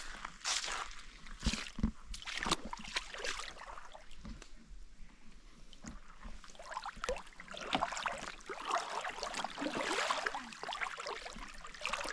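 Water sloshing and splashing around an ultralight canoe, with scattered knocks and clunks in the first few seconds and heavier splashing later on.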